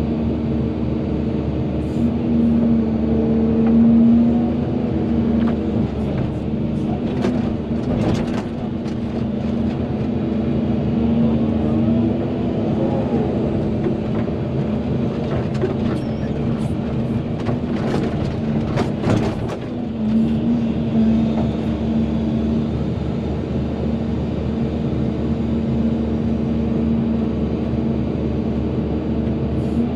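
Volvo EC220DL excavator's diesel engine working steadily under load, its pitch and level swelling and easing as the hydraulics work. There is a brief rising-then-falling whine near the middle, and two clusters of sharp knocks come about a quarter of the way in and again about two-thirds in.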